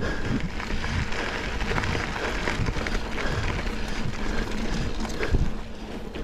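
Mountain bike riding over a rough dirt double-track: steady tyre and wind noise with frequent knocks and rattles from bumps, and a harder thump about five seconds in.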